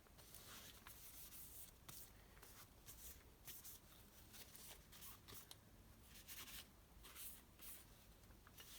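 Near silence, with faint scattered scraping and rustling from hands handling small engine parts at a workbench.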